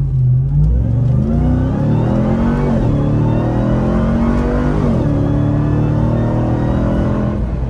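Ram TRX's supercharged 6.2-litre V8 at full throttle, accelerating hard from a standstill while towing a trailer. Its pitch climbs and drops back at two upshifts, about three and five seconds in, then holds steadier toward the end.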